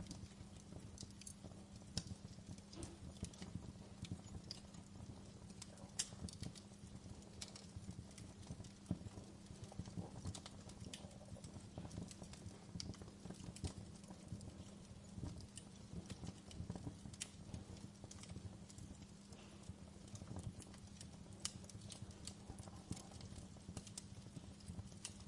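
Wood fire crackling: irregular small pops with a few sharper snaps, over a low steady rumble.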